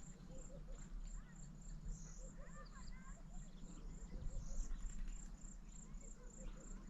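Insects chirping steadily in a high, even pulse, about three chirps a second, with a few faint bird twitters about halfway through.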